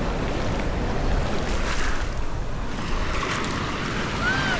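Surf washing in on a beach, with wind buffeting the microphone. A short high call sounds near the end.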